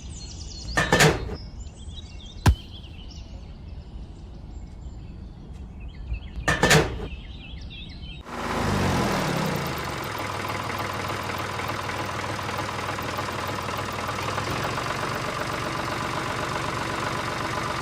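A small motor starts about eight seconds in and then runs steadily. Before it starts there are faint bird chirps, a sharp click and two short, louder sounds.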